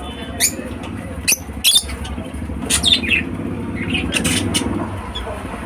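African lovebirds giving a series of short, shrill chirps and squawks at irregular intervals, over a steady low rumble.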